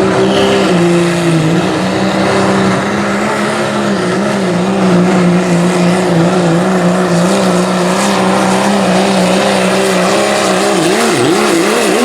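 A 3.0 diesel 4WD pulling truck's engine is held wide open on a pull, giving one loud, steady high-revving note with a slight waver. Near the end the pitch swings rapidly up and down, then settles lower.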